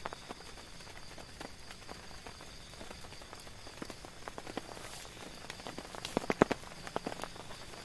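Heavy rain on a tent: irregular drops tapping on the fabric over a steady hiss of rain, with a quick run of louder drops about six seconds in.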